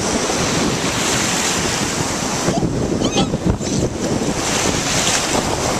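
Ocean surf washing onto the beach, with strong gusty wind buffeting the microphone.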